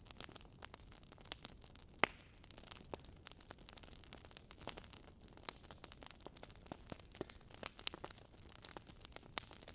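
Wood fire in a fireplace crackling: irregular small pops and snaps, with one sharper pop about two seconds in.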